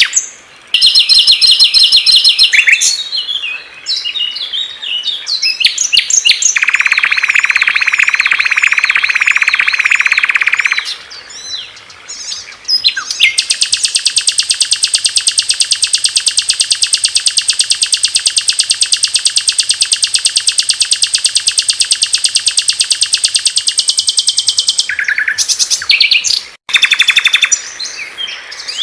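Small songbirds singing loud, clear songs, with recordings of different birds following one another abruptly. The passage includes a buzzy song with looping whistles, then a very fast, high, even trill that lasts about ten seconds, then varied short chirping phrases.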